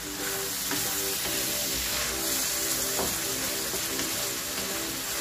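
Sliced pork with ginger, garlic, onion and tomato sizzling steadily in hot oil in a wok, stirred with a wooden spatula that scrapes the pan a few times.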